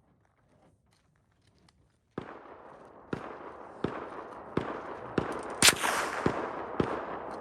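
A rapid string of about eight rifle shots, roughly one every two-thirds of a second, starting about two seconds in over a steady rushing noise. The loudest shot falls about three and a half seconds in.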